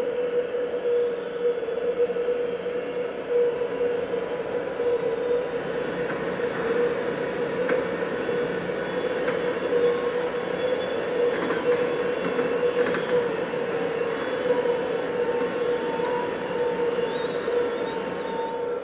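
Steady industrial machinery drone recorded at a waste incinerator: a constant hum with scattered metallic clicks and ticks, and a thin higher whine that joins about three-quarters of the way through.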